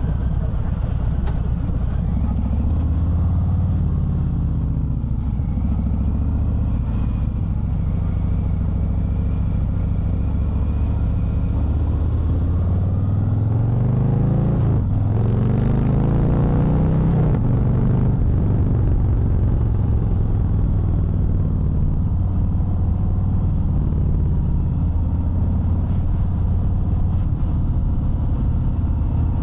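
Harley-Davidson Fat Bob 114's Milwaukee-Eight 114 V-twin running under way, with wind noise over it. About halfway through it revs up, breaks off briefly at a gear change, revs up again, then settles to a steady cruise.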